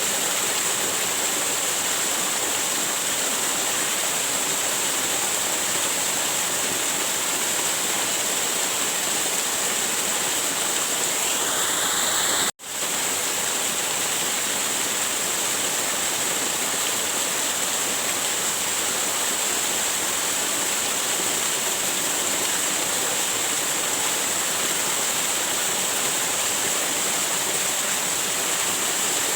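Waterfall: a steady rush of falling water. It cuts out for an instant about twelve seconds in, then carries on unchanged.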